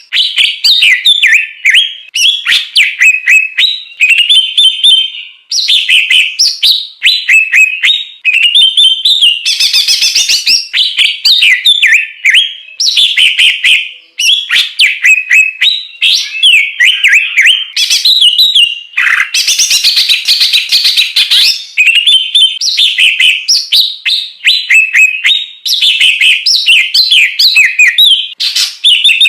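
A songbird singing a loud, continuous, rapidly varied song of quick chirps, whistles and trills, broken only by brief pauses.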